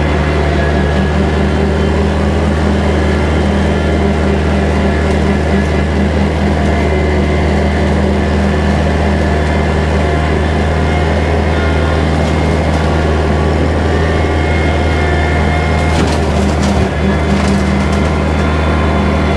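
Kubota tractor's diesel engine running steadily at working speed. A few sharp snaps come through near the end.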